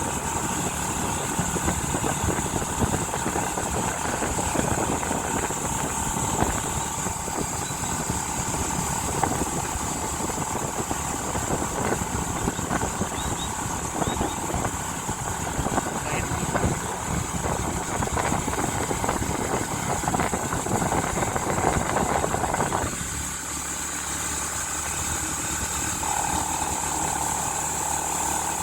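A vehicle engine running steadily under a constant high-pitched hiss. It turns quieter and smoother about 23 seconds in.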